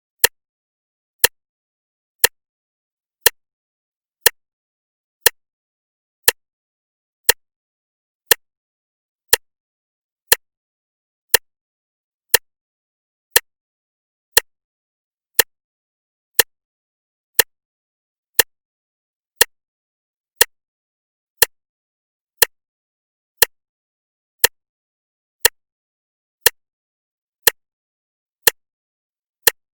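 A clock ticking steadily, one sharp tick about every second, with silence between the ticks.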